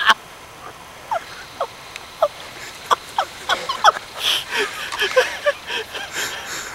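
Birds calling with short chirps, a few spaced out at first and coming thick and fast in the second half.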